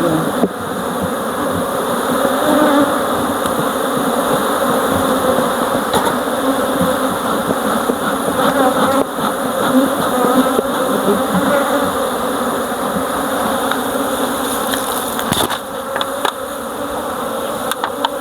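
Many honeybees buzzing loudly and steadily at an open hive, with a few sharp knocks near the end.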